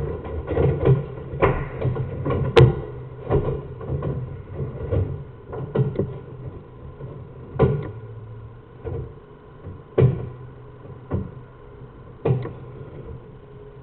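Irregular knocks and bumps, one every second or so and loudest about two and a half, eight and ten seconds in, over a low steady hum.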